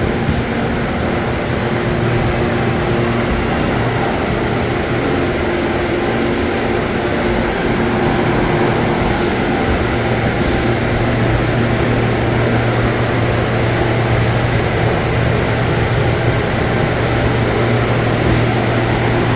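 Walk-in refrigerator's refrigeration unit running with a steady hum; its low drone grows stronger about halfway through.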